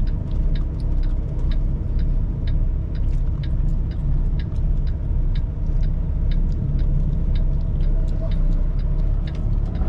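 Steady low rumble of a semi truck's engine and road noise heard inside the cab, with the turn signal ticking about twice a second.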